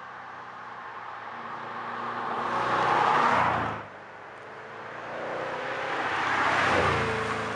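Wiesmann GT MF4's BMW V8 engine and exhaust under acceleration. The sound builds to a peak about three seconds in and cuts off sharply, then builds again to a second peak near the end and eases off as the pitch drops a little.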